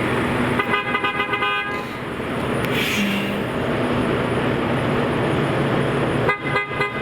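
Vehicle horn honking in a string of short toots about a second in, and again near the end, over steady street traffic noise. A brief hiss sounds about three seconds in.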